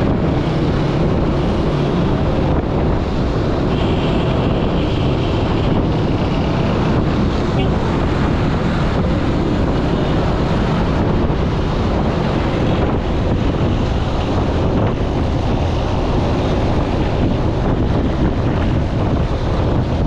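Steady wind buffeting the microphone, a loud continuous rumble with vehicle noise underneath.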